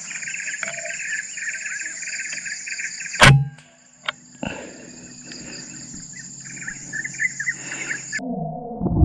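Steady chirring of crickets and other forest insects, broken about three seconds in by a single sharp crack of a PCP air rifle shot, followed by a couple of faint ticks. Near the end the insect sound cuts off abruptly.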